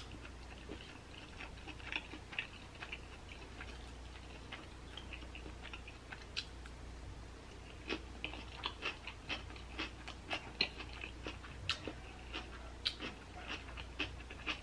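Close-up mouth sounds of a person eating: chewing with wet lip smacks and mouth clicks. The smacks are sparse at first and come thick and fast from about halfway in, over a steady low hum.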